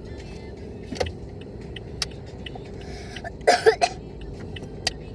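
Steady low rumble inside a car's cabin in slow traffic, with a few scattered light clicks and a brief louder burst of sounds about three and a half seconds in.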